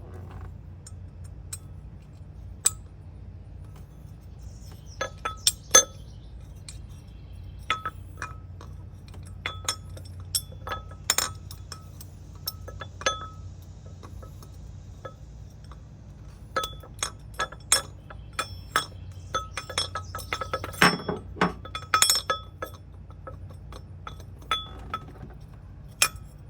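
Irregular sharp metal clinks and taps, some ringing briefly, as bolts and hand tools knock against the water pump pulley while the pulley bolts are threaded in. The clinks come in clusters over a steady low hum.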